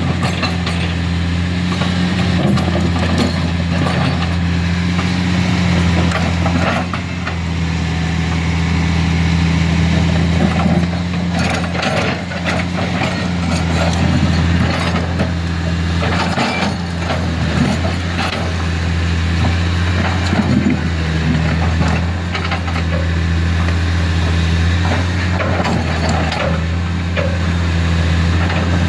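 Heavy diesel machinery running steadily, with scattered clanks and knocks over the low engine hum.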